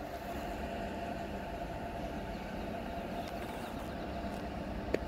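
Container freight train's wagons rolling past on the rails: a steady rumble of wheels on track with a faint steady whine, and one sharp click near the end.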